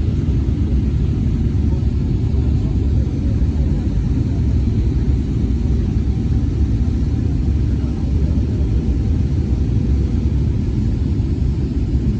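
Steady low rumble of a moving vehicle, even and unchanging throughout.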